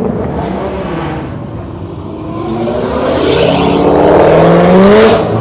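Corvette V8 engine accelerating away. Its note climbs in pitch and grows louder over the second half.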